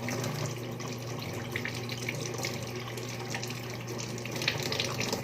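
Water running from a tap into a sink while hands are washed under it, stopping near the end.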